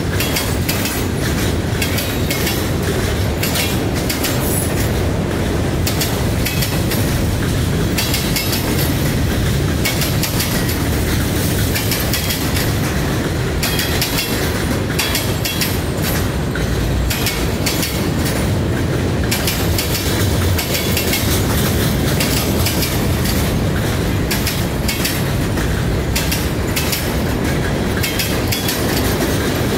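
Freight cars (boxcars, covered hoppers and tank cars) rolling past close by: a steady loud rumble of steel wheels on rail, with repeated clicks and clacks as the wheels cross rail joints.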